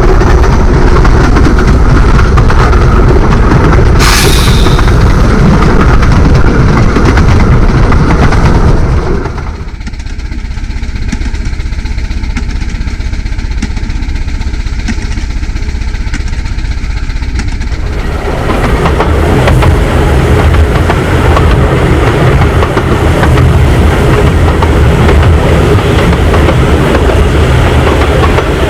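A 15-inch gauge miniature railway train running, with steady wheel-and-rail noise and clickety-clack over the rail joints. There is a brief sharp high sound about four seconds in. The running noise drops quieter from about nine to eighteen seconds in, then comes back at full strength.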